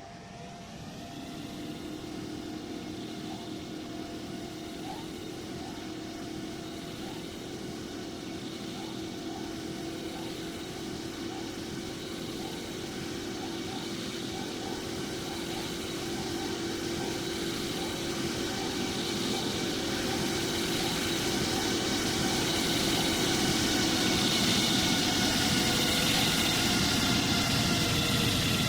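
Jet airliner engines whining, with several steady tones over a broad rush. The pitch rises in the first couple of seconds, then the sound grows steadily louder.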